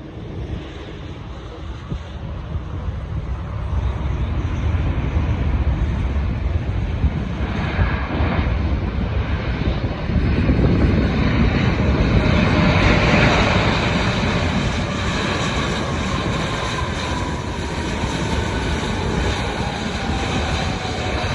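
Arriving airliner's engines passing by, the noise building to a peak about halfway, then a whine sliding steadily lower in pitch as the aircraft moves away.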